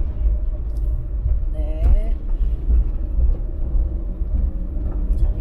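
Low, steady rumble of a Daewoo Damas microvan heard from inside the cabin while it drives, engine and road noise together. A brief rising vocal sound about two seconds in.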